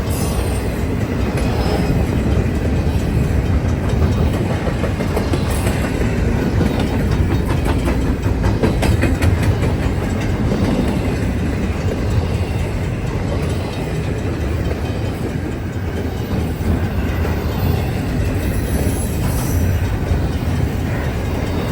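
Freight cars of a CN intermodal train rolling steadily past a level crossing: a continuous rumble of wheels on rail with a rapid clatter of wheel clicks over the joints.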